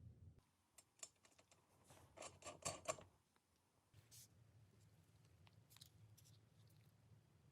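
Near silence broken by a quick run of light clicks and taps about two to three seconds in, with a few single ticks later.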